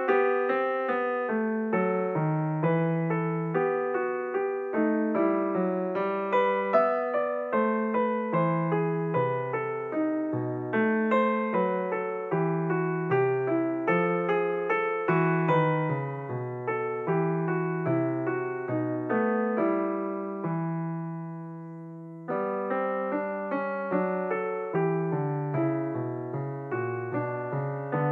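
Background piano music: a steady flow of struck notes, with one chord left to fade out about twenty seconds in before the playing picks up again.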